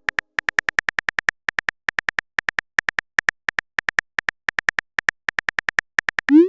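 Phone keyboard typing sound effect: a rapid, uneven run of short clicks, several a second, each with a bright little tick. Near the end it gives way to a short rising swoosh.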